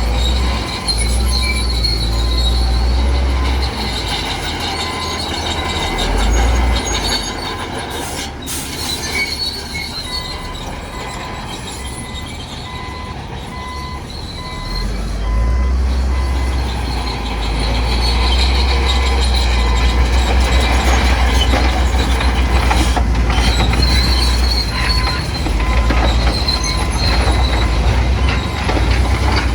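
Crawler bulldozer at work: its diesel engine running with a steady low sound while the steel tracks give a high metallic squeal. The machine eases off for several seconds in the middle and then works harder again.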